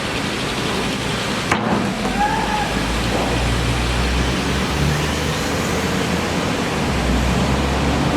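Steady road-traffic noise with a low engine rumble that swells twice as vehicles pass, and one sharp click about a second and a half in.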